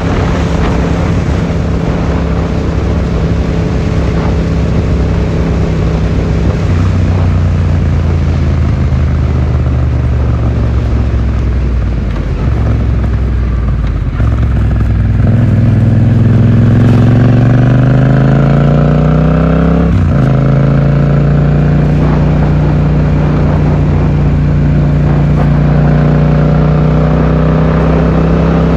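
Yamaha XSR700's 689 cc parallel-twin engine through an Akrapovic exhaust, heard from a rider's pocket while on the move. The revs ease off, then climb steadily about halfway through, with a brief break like a gear change, after which the engine holds a steady note.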